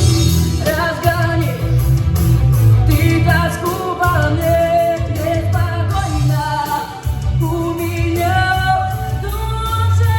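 A female voice singing a melody with long held notes over a backing track of bass and guitar.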